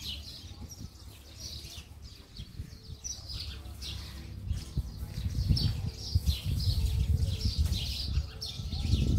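Small birds chirping over and over in short, high, falling calls. From about halfway through, wind buffets the microphone with a low, uneven rumble that becomes louder than the birds.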